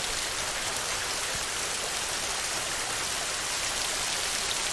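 Heavy rain on a tin roof, a dense, even hiss that holds steady throughout.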